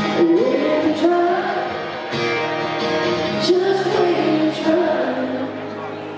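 Live country song performance: a slow sung vocal line over a band with guitar.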